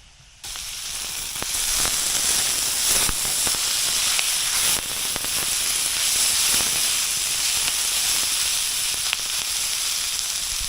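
Mushrooms and onion sizzling in hot oil in a frying pan over a wood fire, a steady loud hiss with scattered pops. It starts abruptly about half a second in.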